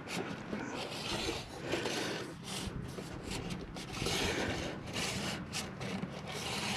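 Telescoping light pole being extended by hand: its sections slide and rub against each other in a series of short, irregular rasping scrapes.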